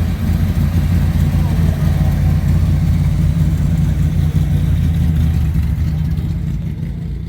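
A car engine idling with a steady, deep low rumble, fading out near the end.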